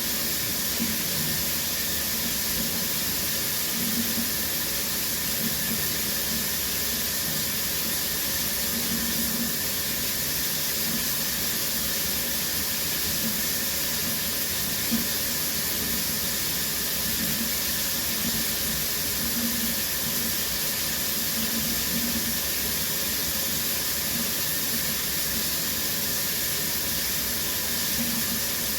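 Shower running: a steady hiss of water spraying from the showerhead and splashing.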